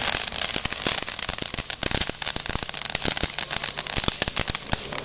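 Helicopter firework going off: a steady hiss with dense, rapid crackling pops.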